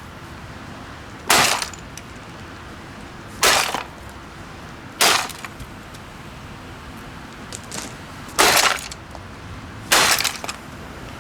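Five heavy sledgehammer blows smashing a vintage 1970s Hoover upright vacuum cleaner, each a sharp breaking crack with a short rattling tail, spaced one and a half to three seconds apart.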